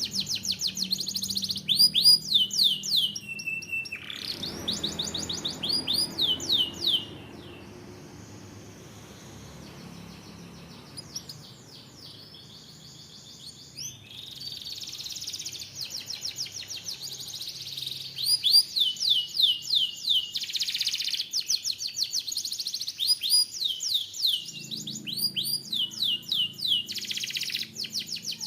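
Canary singing: fast trills of rapidly repeated, high, downward-sweeping notes. The song drops to a softer warble from about seven to fourteen seconds in, then the loud trills return.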